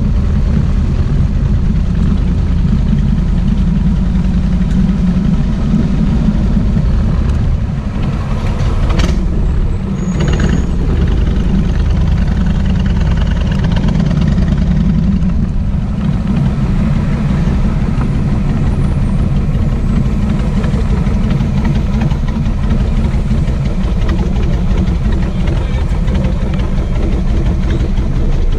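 Kawasaki VN1600 Mean Streak's V-twin engine running steadily, with a brief dip in level and a sharp click about nine seconds in.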